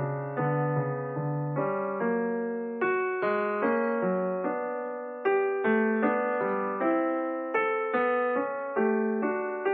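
Background music: solo piano (electric piano sound) playing a calm melody, with notes struck a few times a second and fading.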